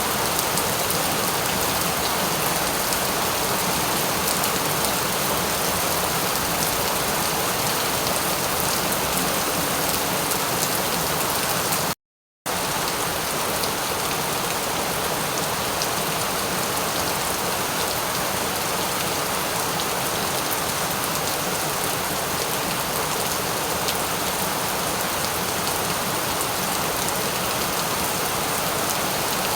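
Steady, even rainfall, a dense patter of drops on a surface. About twelve seconds in, the sound cuts out completely for about half a second and then resumes unchanged.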